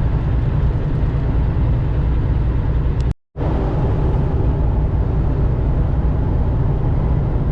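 Steady low drone of a semi truck's engine and road noise heard inside the cab while driving. The sound cuts out completely for a split second about three seconds in.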